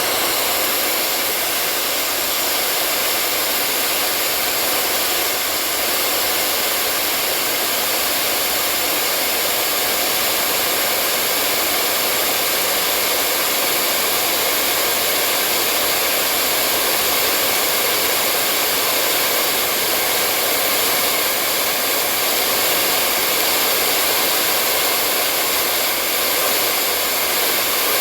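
Hair dryer running steadily, a constant airy whoosh with a faint hum in it, unchanging throughout.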